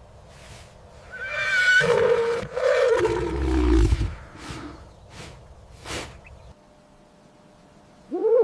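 A large animal's loud call lasting about three seconds, starting high and sliding down in pitch, with breathy puffs about twice a second before and after it. Near the end a different short call rises in pitch.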